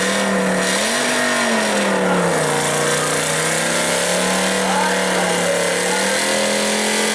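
Truck engine revving hard during a burnout, held at high revs. Its pitch climbs about a second in, drops back about two and a half seconds in, then holds steady.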